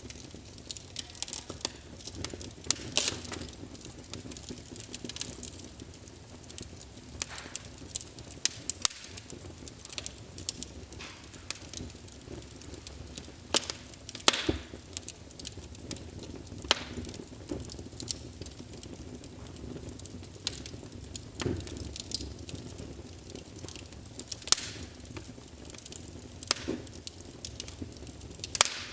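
Wood fire crackling in a fireplace: irregular sharp pops and snaps over a low, steady rumble of the burning logs, with a few louder pops, one about midway and one near the end.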